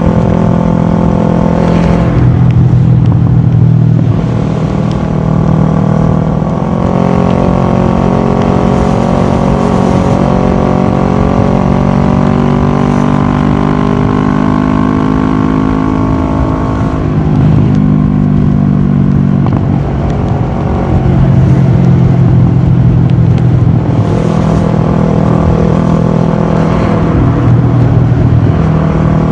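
Kawasaki ER-6f's parallel-twin engine running through a full Akrapovic exhaust while riding, loud throughout. Its pitch steps up and down every few seconds with throttle and gear changes, and rises and falls slowly for several seconds in the middle.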